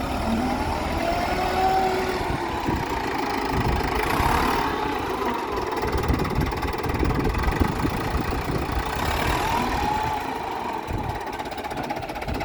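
Case 830 tractor engine running at a steady speed, with a few short whines that rise and fall over it.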